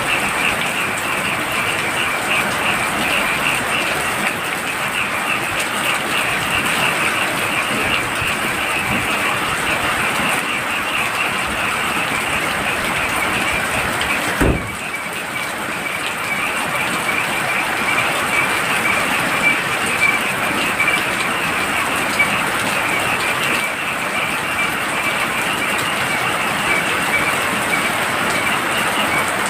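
Heavy rain falling steadily, with a chorus of frogs calling in fast, continuous pulsing trills over it. A single short knock comes about halfway through.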